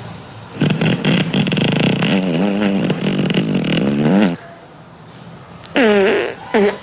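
A recorded fart sound effect from a fart-sound app: a long, buzzing fart with rapidly wavering pitch lasting about three and a half seconds, then a shorter one sweeping down in pitch near the end.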